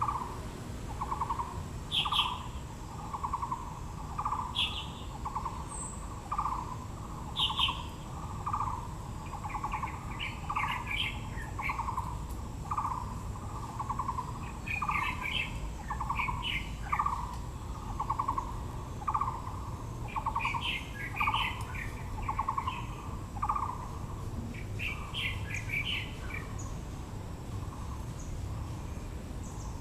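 Birds calling: one bird repeats a low, pulsing note about one and a half times a second and falls silent about three-quarters of the way through, while other birds add short bursts of higher chirps.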